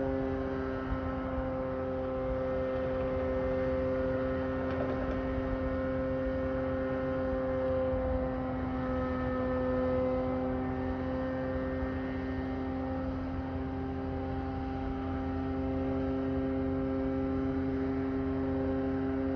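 Loud, constant droning hum made of several steady tones over a low rumble, holding unchanged throughout.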